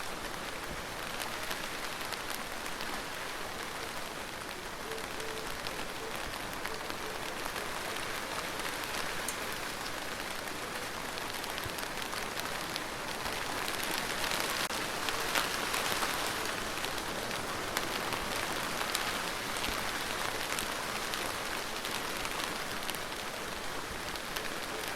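Steady rain falling, with many single drops heard hitting a surface; it swells a little heavier about halfway through, then eases back.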